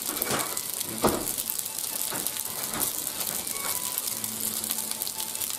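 Penne frying in oil in a pan, sizzling steadily, with a few louder pops and crackles, the strongest about a second in.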